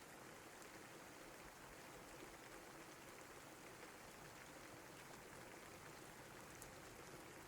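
Steady rain falling, an even soft hiss with faint scattered drop ticks.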